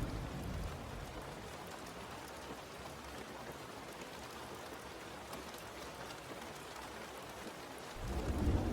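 Steady rain, an even hiss of falling drops. A low rumble of thunder fades away in the first second, and another rumble swells up suddenly about eight seconds in.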